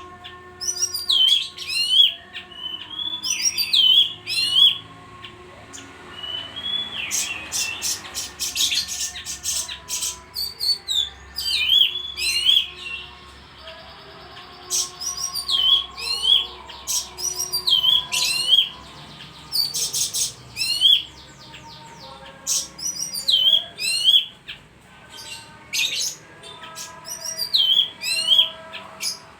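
A bayeman bird singing vigorously: rapid, high-pitched chirping phrases of sharp up-and-down sweeps and fast trills, repeated every second or two with short pauses between bursts.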